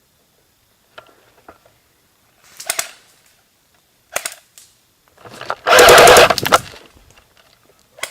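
Airsoft guns firing full-auto in three bursts of rapid clicking shots. The last burst is the loudest and longest, at about a second and a half.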